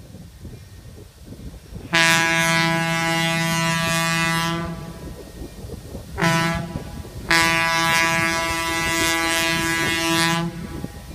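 Diesel locomotive air horn sounding three blasts: long, short, long. Each long blast lasts about three seconds and starts and stops abruptly.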